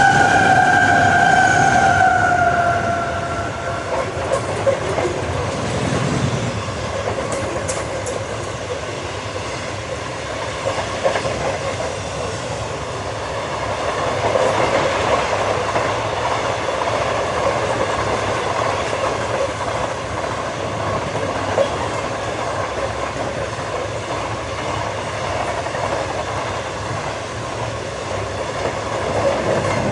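Loaded grain train of hopper wagons rolling past close by, behind diesel locomotives: a steady rumble and rattle of wheels on rail, with occasional sharp clicks. At first a high tone sounds, falling a little in pitch as the locomotives go by. The sound starts to drop away as the last wagon passes near the end.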